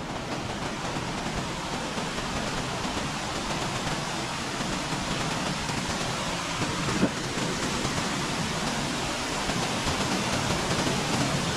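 Waterfall: a steady rush of falling water, growing a little louder toward the end.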